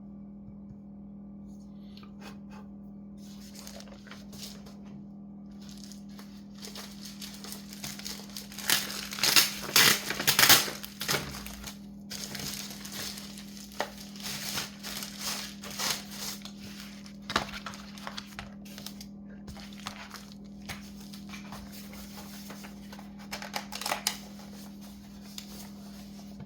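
Plastic crinkling and rustling as it is handled, loudest for a few seconds about a third of the way in, over a steady low hum.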